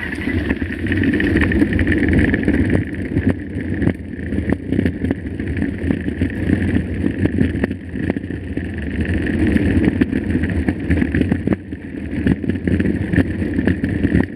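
Mountain bike ridden over a rough trail: a continuous rumble of tyres and frame with frequent sharp rattles and knocks, and wind on the microphone.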